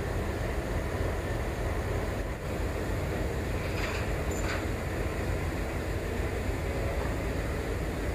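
Steady low rumble around a stationary freight train loaded with cryogenic oxygen tank containers, with two faint clicks about four seconds in.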